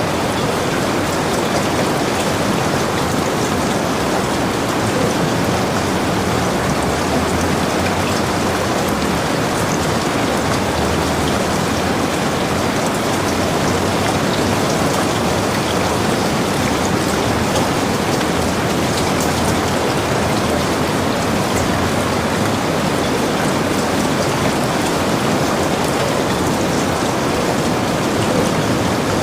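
Steady heavy rain falling, a dense even hiss with scattered drop ticks and no breaks.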